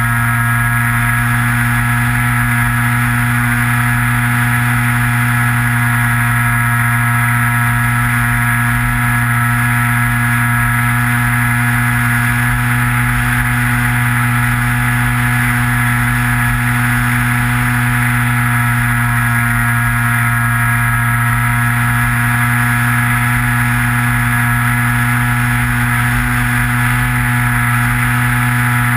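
Electric motor and propeller of a Skywalker FPV model plane, heard through its onboard GoPro, running at steady cruise throttle as an even drone-like hum, with wind rumbling on the microphone.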